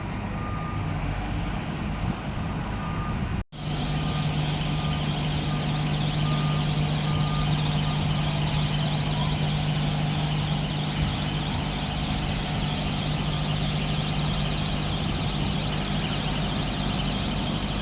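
Liugong 921F excavator's diesel engine running steadily, with an intermittent warning beeper sounding over it for the first several seconds. The sound drops out for an instant about three and a half seconds in.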